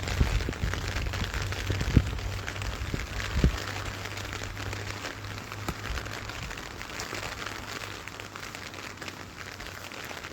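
Rain falling steadily, a dense haze of fine drop ticks. A few dull knocks come in the first four seconds, the loudest about two seconds in.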